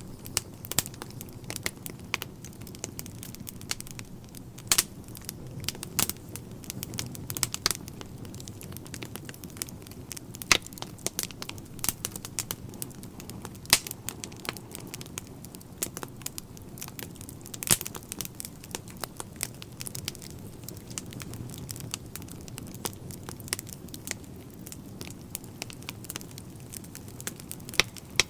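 Wood fire crackling in a fireplace: irregular sharp pops and snaps over a low, steady rush of flame.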